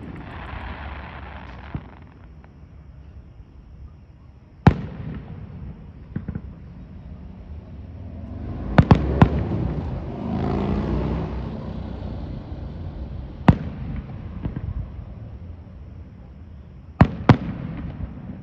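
Aerial firework shells bursting: sharp bangs a few seconds apart, with a quick cluster of three about halfway through and two more close together near the end.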